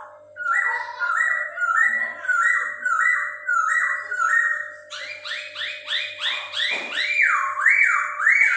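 Chinese hwamei (Poksay Hongkong) singing: a phrase of about ten loud, repeated whistled notes, a little over two a second, then about five seconds in a faster run of looping whistles that swing up and down in pitch.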